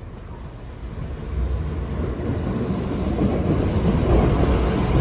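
East Midlands Railway diesel train approaching the level crossing, its low rumble growing steadily louder.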